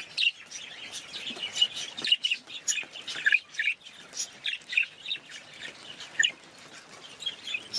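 Budgerigars chattering: a dense, irregular run of short, high chirps and warbles.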